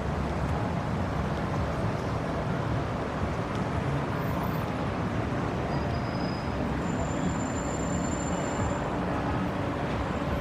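City street ambience: steady traffic noise, with a few faint, thin high-pitched tones partway through.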